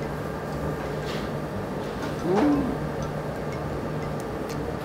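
A person chewing a mouthful of grilled pork skin, with faint soft clicks of chewing and a short pitched "mm" of enjoyment about halfway through, over a steady low hum.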